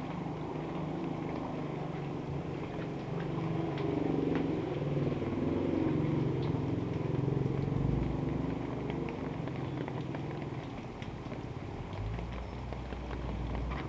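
Motor vehicle engine running close by on a wet street, louder in the middle, with faint scattered ticks.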